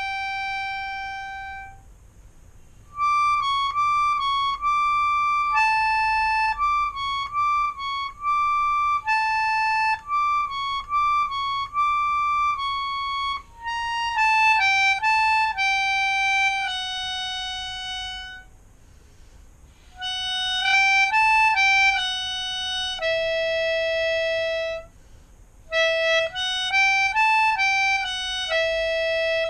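Melodica played solo, improvising a single-line melody in short phrases of held notes and quick runs, with brief pauses between the phrases.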